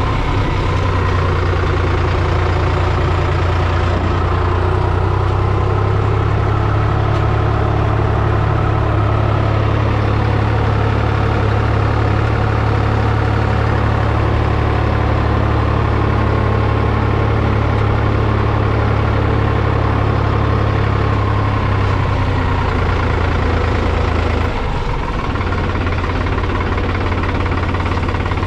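New Holland T480S tractor's diesel engine running steadily. About 24 seconds in, the sound changes briefly, then it runs on slightly quieter.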